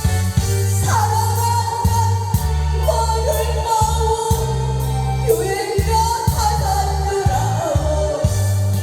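A song with a band backing: a singer's long, wavering held notes over heavy bass and a steady drum beat.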